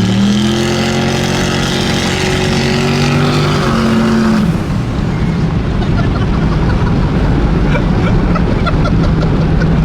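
Turbocharged pickup truck engine making about 830 horsepower, accelerating hard. Its pitch steps down right at the start, then climbs steadily for about four seconds. The pull ends and it settles into a steady running rumble with road and wind noise.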